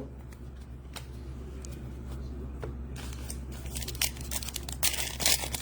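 Trading cards and foil pack wrappers being handled: faint rustling and clicks over a steady low hum, growing busier in the last two seconds or so.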